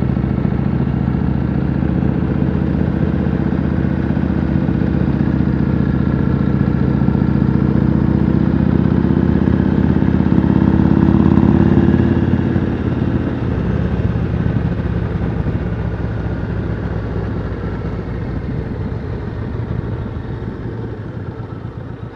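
Yamaha Road Star V-twin motorcycle engine running under way, heard from the rider's seat. It pulls steadily, then eases off about halfway through and grows gradually quieter as the throttle is rolled off.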